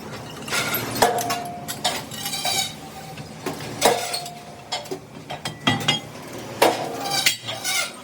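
Steel truck rim parts clanking against metal: an irregular series of sharp metal knocks, several leaving a short ringing tone.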